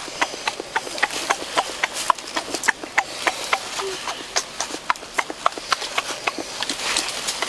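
Chewing on cooked lobster: a run of sharp, irregular crunching clicks, several a second.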